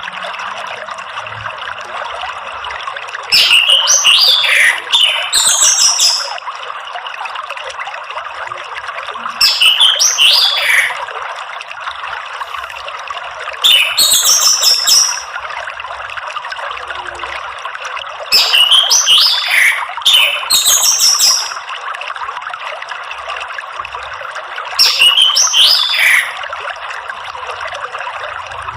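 Orange-headed thrush singing in short, loud phrases of falling whistles and twittering trills, seven phrases with pauses of a few seconds between them, over a steady wash of running water.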